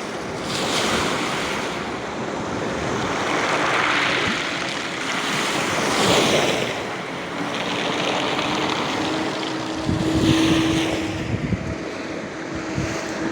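Black Sea surf breaking on the shore, the wash swelling and fading several times a few seconds apart, with some wind on the microphone. From about halfway through, a steady engine hum comes in and grows louder near the end.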